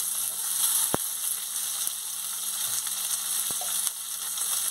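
Chopped tomatoes, onions and spices frying in hot oil in a kadai, with a steady sizzle. Two light clicks come through, about a second in and again near the end.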